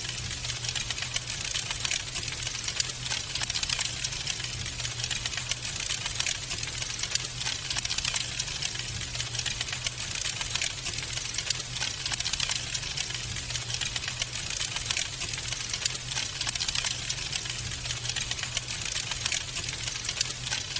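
Wood fire crackling steadily, a dense run of small pops and snaps over a low steady hum.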